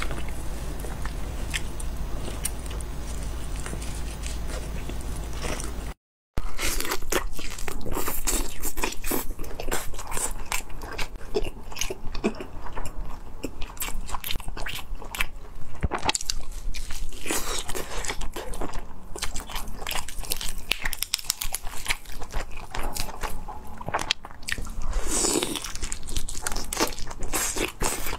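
Close-miked eating of a spicy roast chicken: biting, chewing and crunching mouth sounds, made of many quick sharp clicks and smacks. The first few seconds carry a steady low hum with only sparse clicks, broken by a brief dropout before the dense chewing begins.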